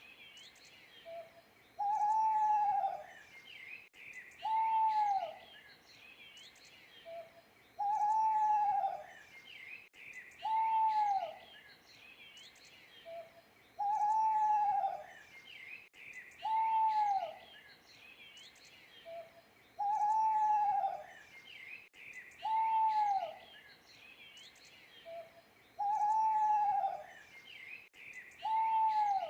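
An owl hooting about every three seconds, each hoot one arched note that dips in pitch at the end, with a short, softer note between some hoots. Small birds chirp and twitter steadily behind.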